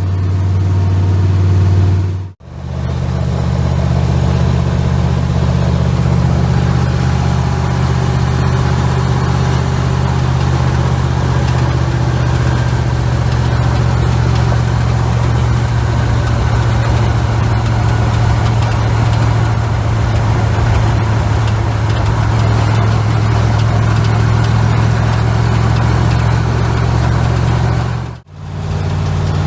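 Twin-turbo big-block Chevy V8 running at a steady, even cruise. The sound briefly cuts out about two seconds in and again near the end.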